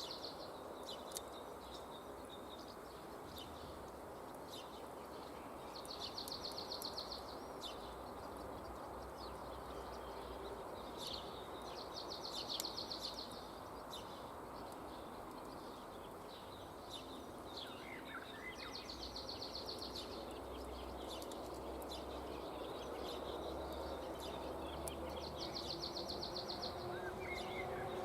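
A high, rapid trill about a second and a half long, repeating every six seconds or so: a small animal calling, over a steady outdoor background scattered with sharp ticks.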